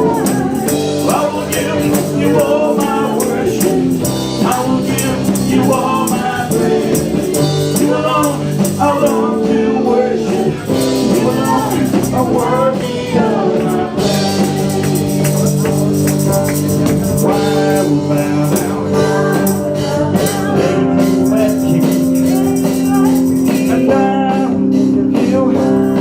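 A live band playing a song, with singing and percussion.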